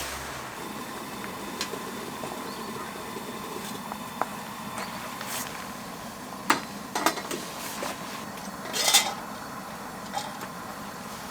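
Scattered clinks and knocks of utensils against dishes, with a cluster of sharper ones a little past the middle, over a steady background hiss.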